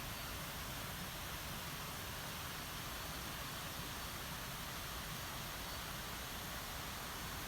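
Steady rushing of a mountain stream, an even hiss without breaks.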